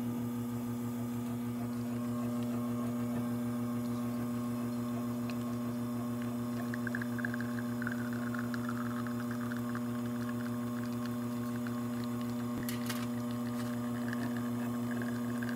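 Rocket R58 espresso machine pulling a shot, its rotary pump running with a steady hum. About six or seven seconds in, a faint crackling trickle of espresso flowing into the cup joins it, with a single short click near the end.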